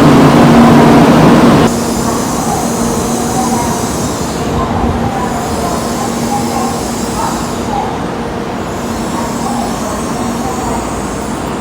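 Shinkansen train noise: a loud rumble with a steady hum that cuts off abruptly under two seconds in, followed by quieter station ambience with the steady hum and faint voices.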